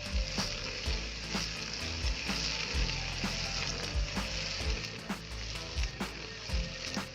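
Steady hissing noise with regular low thumps about twice a second, like a music track's beat.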